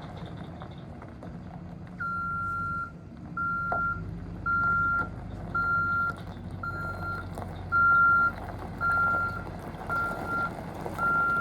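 GMC Topkick truck's engine running, and about two seconds in its backup alarm starts beeping, one steady tone about once a second.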